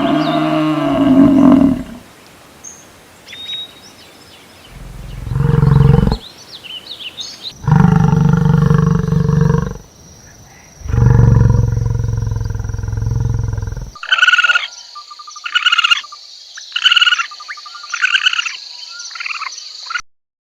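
A series of animal calls: three long, low, loud calls in the middle, then six short, high-pitched calls in quick succession near the end.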